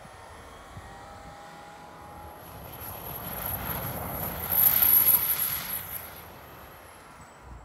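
Subaru Impreza's flat-four boxer engine revving as its spinning wheels throw up snow while the car drifts. The sound swells to its loudest about five seconds in as the car slides close past, then fades.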